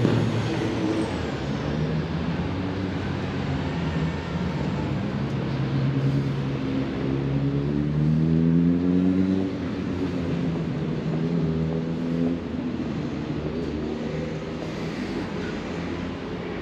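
A car engine accelerating, its pitch rising several times in short climbs like gear changes, then fading away near the end.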